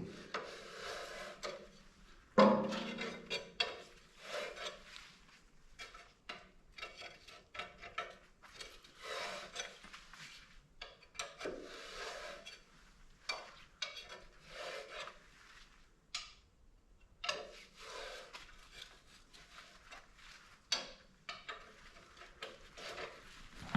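Hand tools and metal tractor parts being handled: irregular scraping and rubbing with clinks, and one sharp knock about two and a half seconds in.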